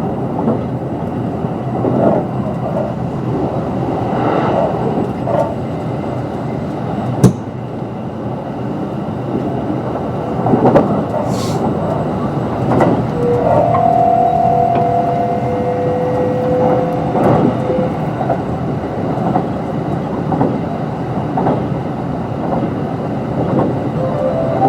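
Kintetsu 22600 series limited-express electric train running at speed: steady rumble of wheels on track with occasional rail-joint knocks. There is one sharp click about seven seconds in, and a pair of steady tones rises briefly in the middle.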